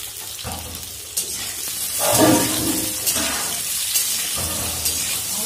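Potato chunks sizzling in hot mustard oil in a kadai, stirred with a spatula, with a steady high hiss that grows louder about two seconds in.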